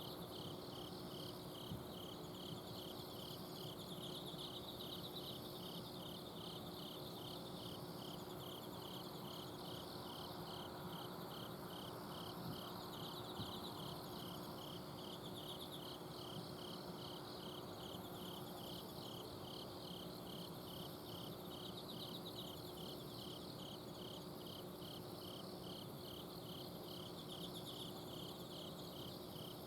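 Autumn insects singing in chorus at night: one chirps in an even, steady pulse about twice a second while others trill higher up. Under them runs a steady low hum from an air-conditioner outdoor unit.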